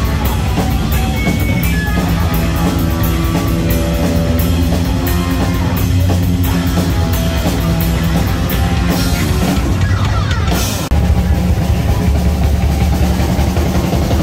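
Live heavy metal band playing loud, with drums, cymbal crashes, guitar and bass. The music dips for a moment about eleven seconds in, then comes back with a heavier low end.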